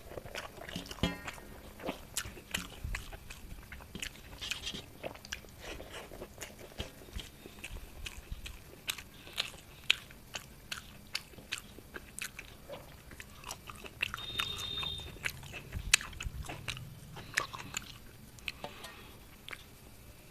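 A person chewing and eating close to the microphone: a string of small wet clicks and smacks from the mouth, with a mouthful of rice and bori saag.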